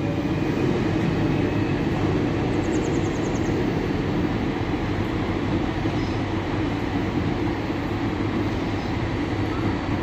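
Double-deck electric multiple-unit train moving through the station, a steady low rumble of wheels and running gear on the track.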